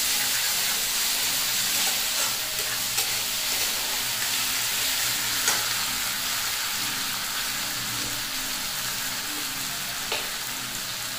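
Chopped tomatoes, onion and ginger-garlic paste sizzling steadily as they fry in oil in a steel kadai, stirred with a steel spatula. A few sharp metal-on-metal clicks come through the sizzle.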